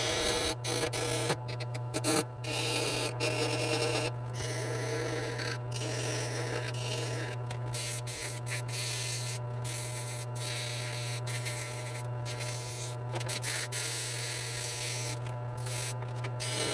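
Irregular rubbing and scraping strokes, broken by short pauses, over a steady low hum.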